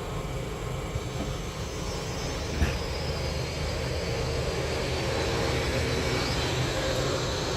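Baltimore Metro Subway rail cars moving slowly, running with a steady hum and faint whine from the motors, and a single knock about two and a half seconds in.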